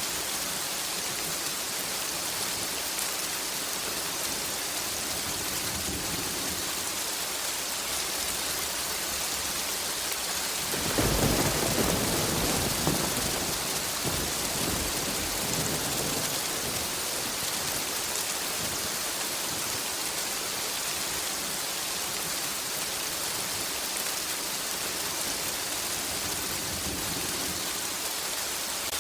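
Steady heavy rain hissing, with a single thunderclap about a third of the way in: a sudden loud crack that rolls into a rumble and dies away over about five seconds.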